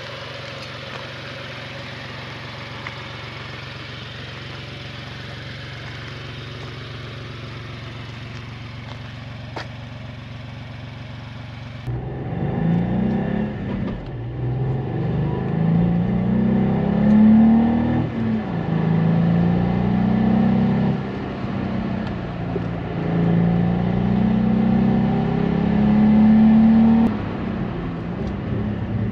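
Volkswagen up! GTI's turbocharged three-cylinder engine idling steadily. About twelve seconds in it pulls away hard, its note rising again and again with short drops between at each gear change.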